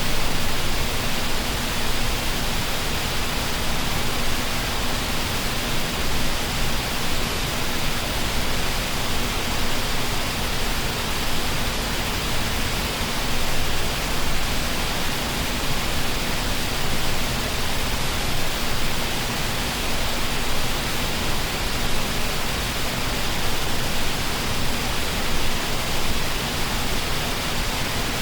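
Waterfall: a steady, unbroken rush of falling water, with a faint steady low tone underneath.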